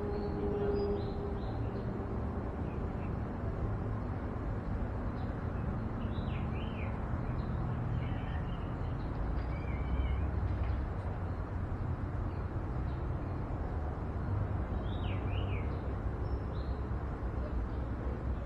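Outdoor ambience: a steady low rumble, with small birds chirping in quick zigzag notes a few times, about five to seven seconds in and again near the end.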